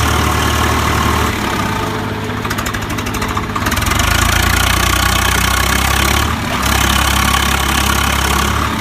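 Tractor diesel engine running steadily. Between about one and four seconds in, its note drops and the separate firing beats become distinct, then the steady note returns.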